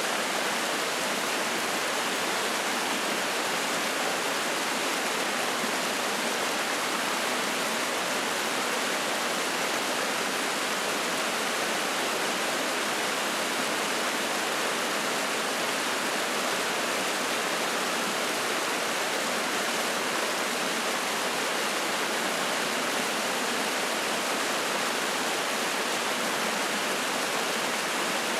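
Mountain stream rushing and splashing over rocks, a steady, even sound of running water.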